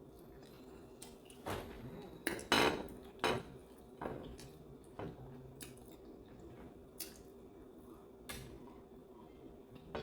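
Cutlery knocking and scraping against a dish during eating, in a series of short irregular clinks, the loudest about two and a half seconds in.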